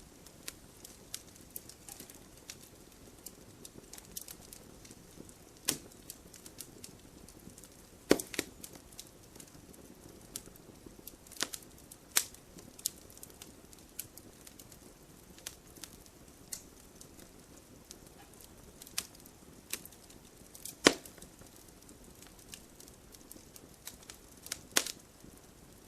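Firewood burning in a wood stove: a soft steady hiss with irregular small crackles, and every few seconds a sharper, louder pop from the burning logs.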